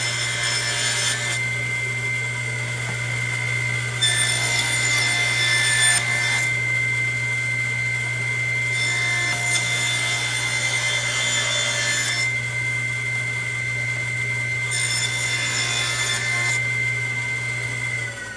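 Electric power tool working a wood floor register: a steady motor whine, with four stretches of rasping noise each a couple of seconds long as it bites into the wood. The motor winds down right at the end.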